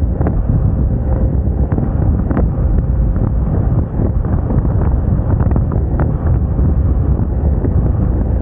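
Wind buffeting the microphone of a moving Moda Moca 110 scooter: a loud, steady rumble, with the scooter's engine and road noise beneath it.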